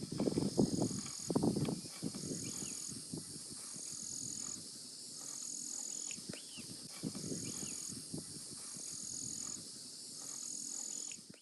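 Insects droning steadily in a high register, with a pulsing buzz repeated about once a second, over footsteps rustling through leaf litter that are heaviest in the first two seconds. A few faint bird chirps come through, and the sound cuts off suddenly at the end.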